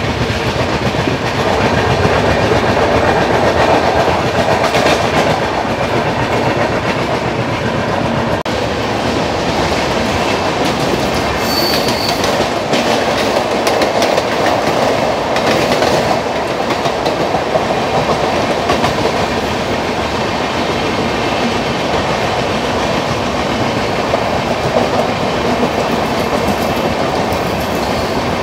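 Golden Temple Mail express train running: a steady rumble and clatter of the coach wheels on the rails, with a short high squeak about twelve seconds in.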